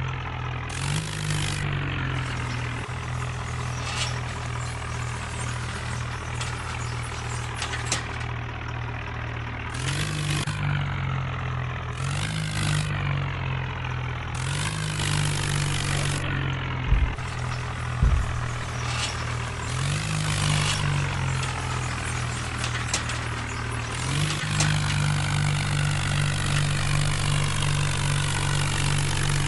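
Tractor engine running steadily, its pitch rising and falling every few seconds as it takes up and drops load. There are two sharp low thumps about halfway through.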